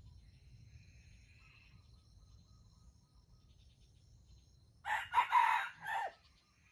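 Junglefowl rooster crowing once, a short crow in three parts starting about five seconds in, over steady high-pitched insect chirring.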